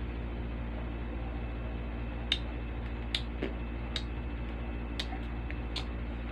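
A steady low hum with a handful of short, sharp clicks and taps at irregular intervals, starting about two seconds in.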